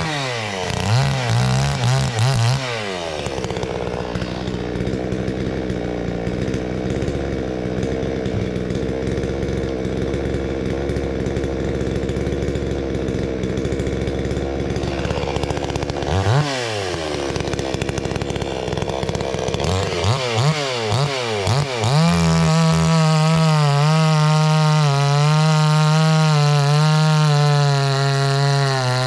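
Two-stroke gas chainsaw revved in quick throttle blips, then held lower and steady for about twelve seconds as it works through a cut. After a few more blips it screams at high revs, unloaded, for the last several seconds.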